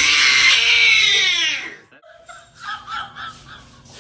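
A dog screaming in one long, high-pitched wail that falls in pitch and stops after about two seconds, followed by a short run of faint, quick whimpers.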